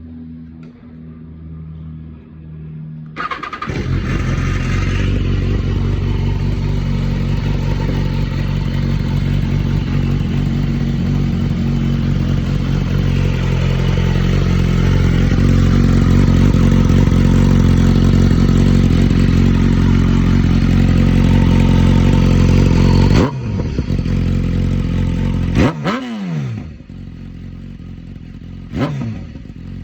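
BMW S1000RR inline-four with a full exhaust system starting from cold after a few seconds of music. It runs at a high, steady cold idle, then drops off suddenly about twenty seconds later. Two quick throttle blips follow near the end.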